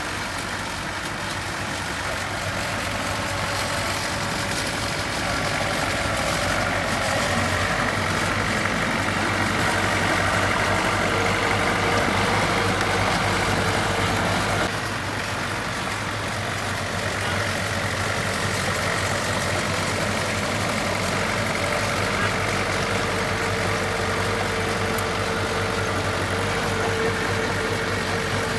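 Engine of an earthmoving machine running steadily, growing louder over the first dozen seconds, then dropping suddenly about halfway through.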